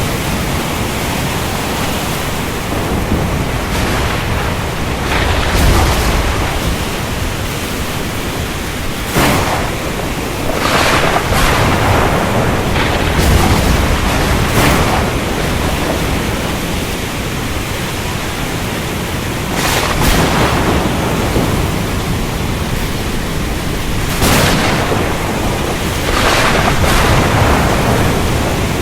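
Ocean storm: a steady rush of rain and surf, with several louder swells every few seconds, some carrying low rumbles of thunder.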